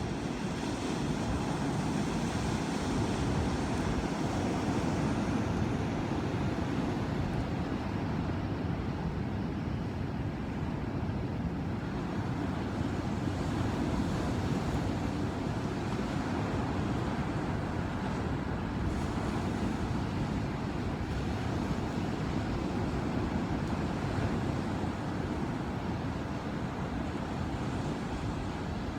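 Ocean waves and surf: a continuous low rush of water, with a brighter hissing wash through the first few seconds as a wave spreads.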